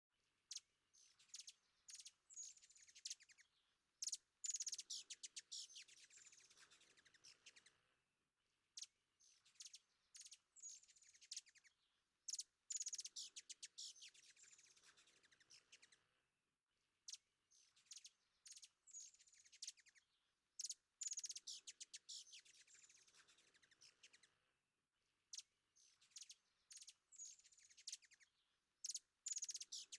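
Birdsong of sharp chirps and quick descending trills. The same sequence of calls repeats about every eight seconds, like a looped recording.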